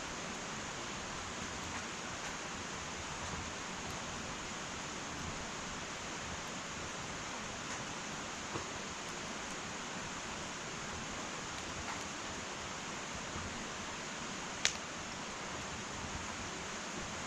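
Wood fire burning in an irori (Japanese sunken hearth): a soft steady hiss with faint scattered crackles and one sharp pop near the end.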